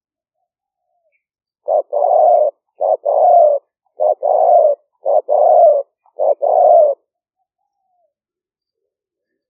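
Spotted dove cooing: five calls in about five seconds, each a short note followed by a longer one. It is the call of a decoy dove, recorded for playback to draw in wild doves.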